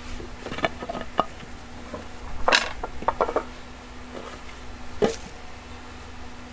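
Steel rebar clanking and knocking as it is worked in a hand rebar bender: a run of sharp metallic strikes, the loudest about two and a half seconds in and another near five seconds. A faint steady hum runs underneath.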